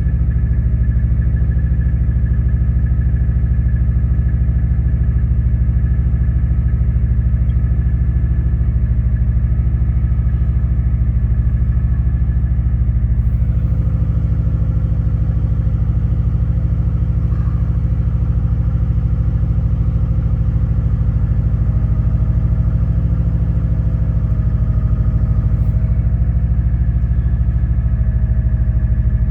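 2003 Subaru WRX's turbocharged flat-four engine idling steadily just after a cold start, warming up in below-freezing weather.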